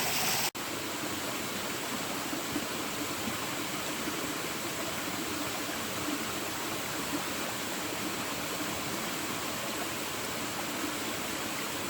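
Steady rush of flowing stream water, an even hiss without breaks, with a brief dropout about half a second in.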